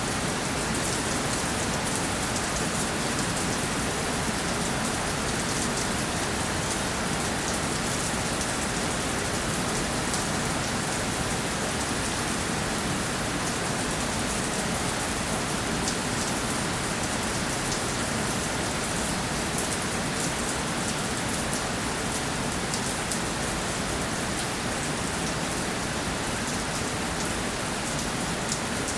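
Steady rainfall, drops pattering on a surface in a constant even hiss with fine droplet ticks.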